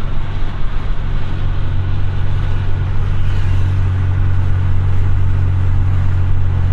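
Honda Accord's exhaust giving a steady low drone as the car drives along, with road noise underneath.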